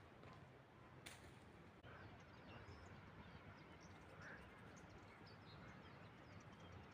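Quiet rural outdoor ambience with scattered faint, distant bird chirps and one sharp click about a second in.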